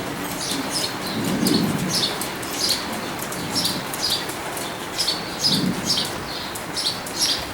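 A small bird chirping over and over, about two short high chirps a second, with a low steady outdoor background.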